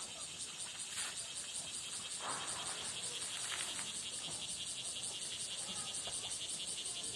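Cicadas buzzing in a steady pulsing chorus, about five pulses a second. A couple of brief rushes of noise come through about one and two seconds in.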